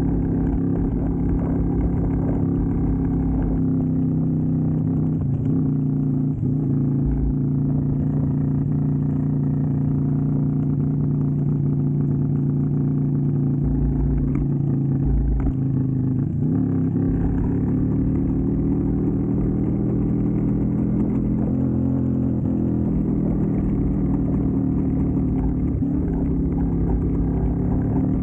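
Keeway V250's 250 cc V-twin engine running under way, its note steady through the first half, dipping in pitch about halfway through and then climbing again as the bike picks up speed.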